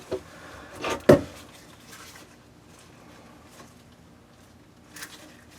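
A single sharp knock about a second in, with a couple of fainter clicks, from tools or materials being handled and set down; otherwise quiet room tone.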